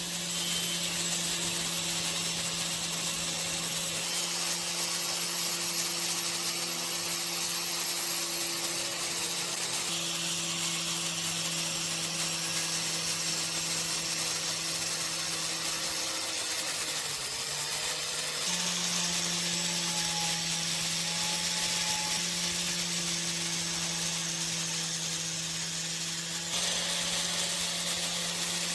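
Electric power tool motor running steadily, a hum with overtones over a hiss, working on a rusty steel knife. About two-thirds of the way through, the pitch dips briefly, then settles a little higher.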